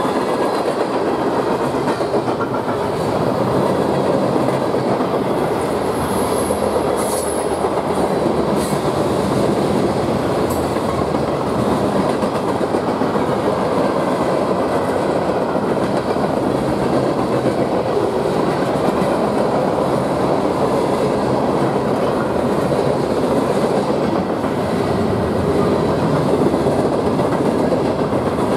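Freight train cars rolling past at speed close by: a steady rumble of steel wheels on rail, with a brief high squeal about six seconds in.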